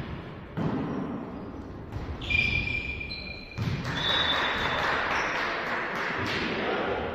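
Volleyball being struck during a rally in a sports hall: sharp slaps of the ball about half a second in and again midway, short high squeaks in between, then a few seconds of steady hall noise.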